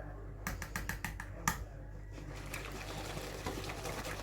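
A utensil clicking rapidly against a bowl, about eight sharp knocks in a second, then a steady fine scraping as a cheesecake cream mixture is stirred.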